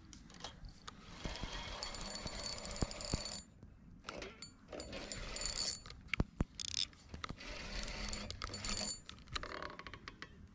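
Fishing reel being cranked to reel in line, a mechanical whirring in three spells with a few sharp clicks in between.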